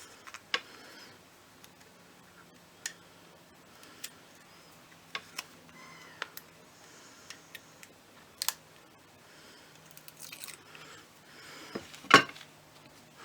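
Scattered small clicks and taps with short rustles of paper, from card pieces being handled and the release backing being peeled off foam adhesive pads. There is one louder knock near the end.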